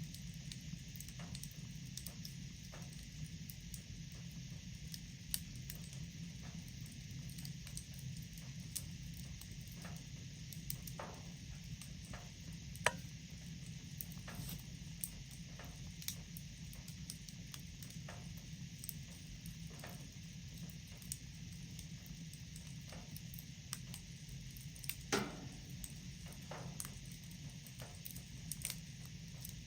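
Wood fire crackling in a fireplace: a steady low rustle under frequent small pops and snaps, with one sharper snap near the middle and another later on.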